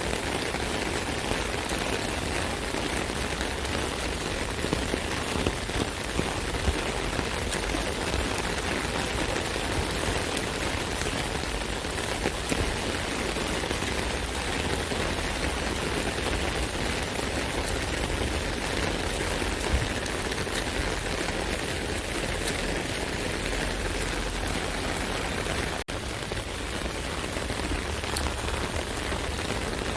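Steady rain falling on an umbrella: a dense, even hiss of drops with scattered sharper drop hits, and a momentary dropout near the end.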